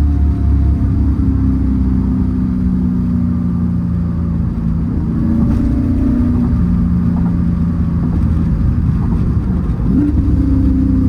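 1996 Chevrolet Camaro Z28 SS's 5.7-litre LT1 V8 running on the move. Its pitch slowly sinks, rises again about five seconds in, then sinks and jumps up sharply near the end.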